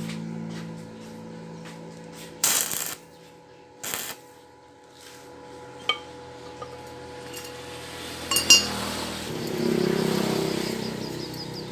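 Steel pieces clinking and knocking together in a metal workshop: a few sharp metallic clinks with a brief ring, after two short rushes of noise and before a rising rush of noise near the end.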